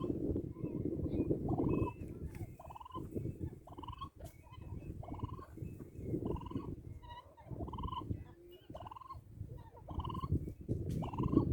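Domestic turkeys calling: a steady series of short, rising-then-falling calls, about one every three-quarters of a second, over a low rumble.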